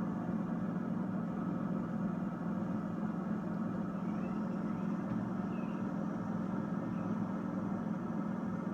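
Steady low rumble of rushing floodwater, even and unbroken, with a few faint high chirps about halfway through.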